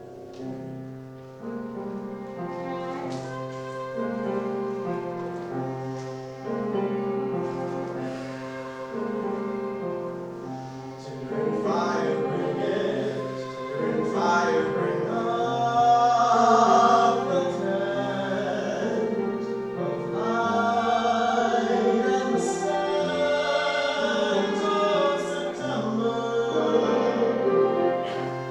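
Music: several voices singing together in harmony over sustained instrumental accompaniment, growing louder about halfway through.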